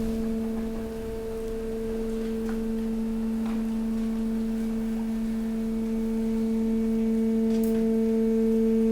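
Hydraulic waste compactor's pump whining on one steady tone while the press works, getting slightly louder toward the end, with a few faint clicks.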